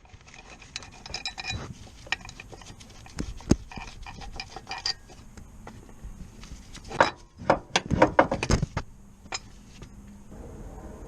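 Hand tools clinking and knocking on metal car parts during clutch work: a string of light metallic clinks, a sharp knock about three and a half seconds in, and a cluster of louder knocks around seven to eight and a half seconds.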